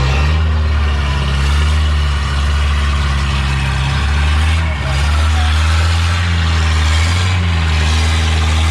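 Longtail boat's engine running loud and steady at an even pitch, with a brief dip about halfway through.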